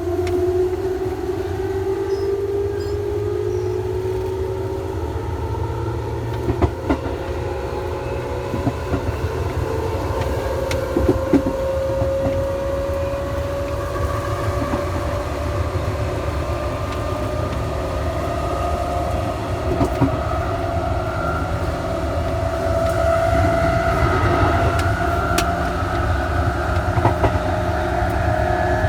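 Electric train's traction motors whining, the whine rising slowly and steadily in pitch as the train gathers speed, over a constant low rumble of wheels on rail. A few short clicks from the track break through.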